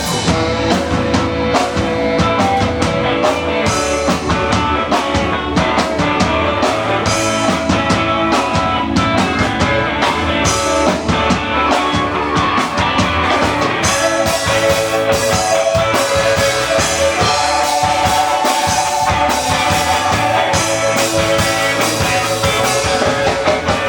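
Live ska band playing loudly: drum kit keeping a steady beat under guitar and long held instrument notes. The song stops right at the end.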